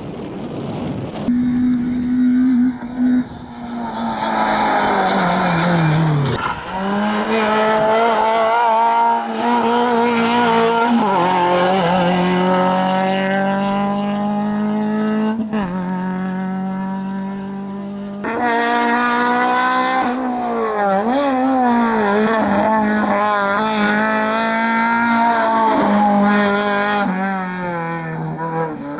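Rally cars on a hillclimb stage, engines run hard and revved high: the pitch climbs under acceleration and then drops sharply at each gear change or lift, many times over.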